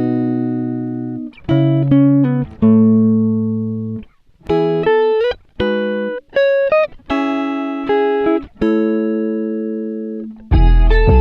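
Background music: a plucked, guitar-like melody in short phrases of ringing notes, with brief pauses between phrases. A fuller arrangement with bass comes in near the end.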